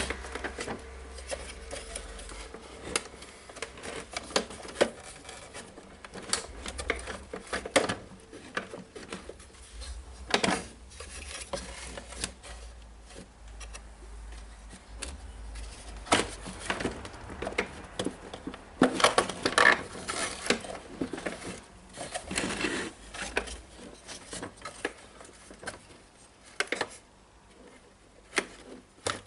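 Irregular clicks, knocks and light rattles of parts being handled and pushed as a switch unit is worked back into a DeWalt DC011 site radio's housing, busiest in the second half.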